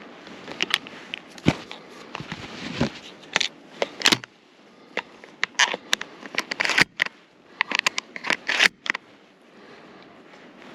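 Irregular sharp clicks, scrapes and rustles close to the microphone, thinning out over the last couple of seconds.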